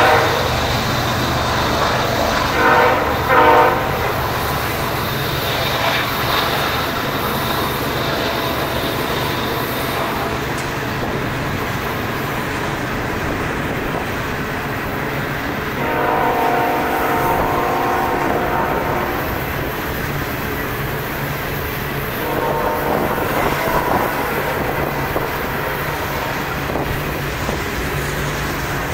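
Coal hopper cars of a freight train rolling past with a steady rumble and clatter of wheels on rail. A train horn sounds two short blasts about three seconds in, a longer blast about halfway through, and a fainter one a few seconds later.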